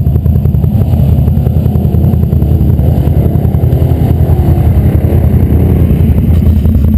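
Off-road vehicle engine running steadily close up, its rapid firing pulses loud and even throughout.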